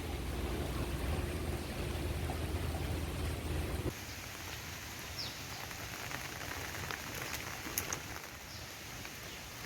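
Heavy rain pouring steadily as an even hiss. For the first four seconds it sits under a deep low rumble, which cuts off suddenly; after that the rain is a finer hiss with scattered drop ticks.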